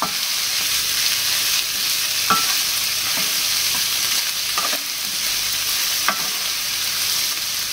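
Diced smoked tofu, sweet corn and courgette sizzling steadily in a nonstick frying pan while being stirred with a wooden spatula, which knocks against the pan about four times.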